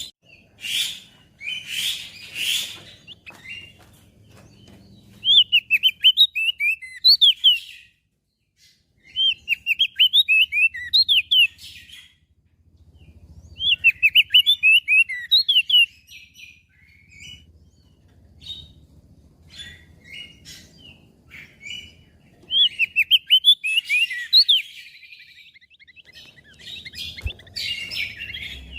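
Crested white-eye (opior jambul) singing: several bursts of rapid, high chirping phrases, each lasting a couple of seconds, with short pauses between them.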